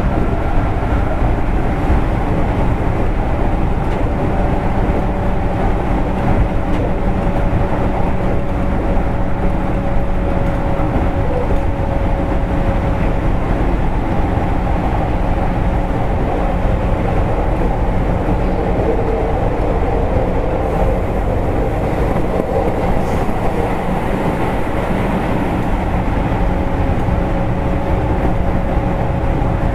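Inside a JR East 205 series electric commuter car: the steady, loud rumble of the train running on the rails, with a thin steady tone that drops out for a while and comes back near the end.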